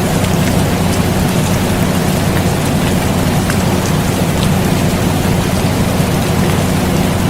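Steady rain with scattered small drop ticks, layered over the constant hum of an air conditioner.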